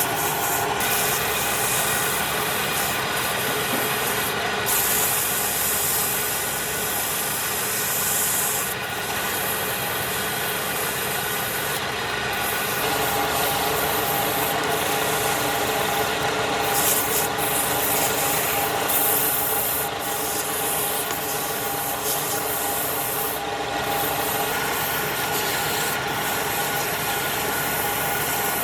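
Wood lathe running with a steady motor hum while a tool or sandpaper rubs against the spinning wood. The rubbing hiss lifts off briefly several times and then comes back.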